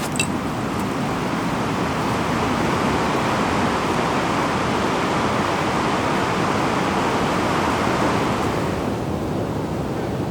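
Steady rushing of flowing water, an even noise with no rhythm, and one sharp click just after the start. The higher hiss softens about nine seconds in.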